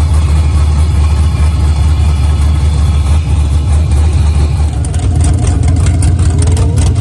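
LS-swapped V8 with a BTR stage 3 cam idling, a loud, choppy, lumpy idle. From about five seconds in, a rapid run of sharp ticks sounds over the engine.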